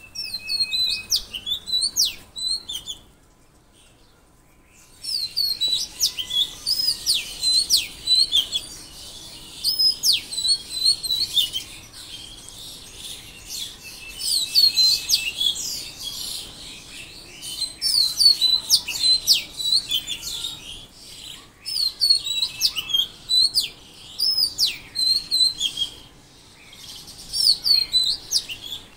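Songbird singing in bouts of quick, high chirps and short sweeping whistled notes, with short pauses between the bouts.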